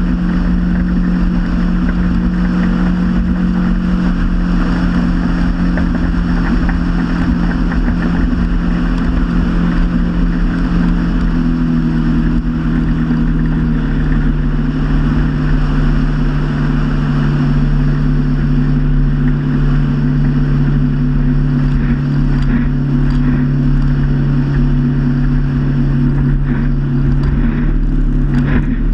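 Motorboat engine running steadily under way, over a haze of water and wind noise. Its pitch steps down a little about twelve seconds in and then holds.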